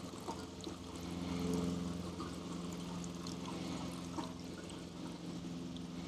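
A small engine idling steadily, with liquid pouring or trickling over it.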